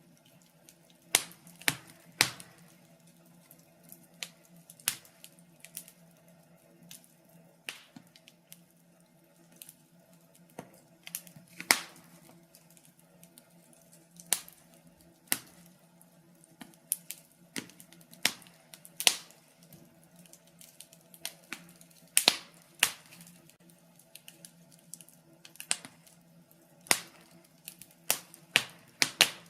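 Burning logs in a fireplace crackling, with irregular sharp pops and snaps, some in quick clusters, over a faint steady low hum.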